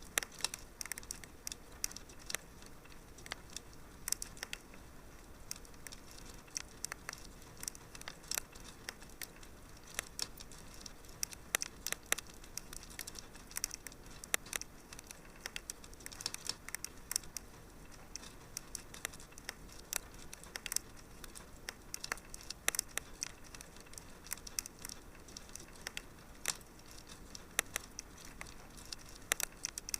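Wood fire in a fireplace crackling steadily, with irregular sharp pops and snaps several times a second over a soft hiss.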